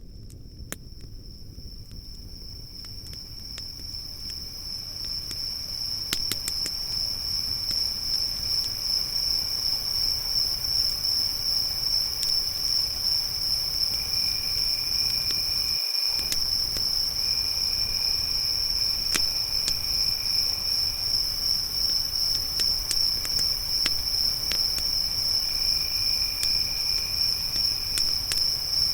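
Crickets chirping in a steady, rapidly pulsing high-pitched chorus that swells in over the first few seconds. A second insect joins on and off at a lower pitch from about halfway, over scattered small crackles from a campfire.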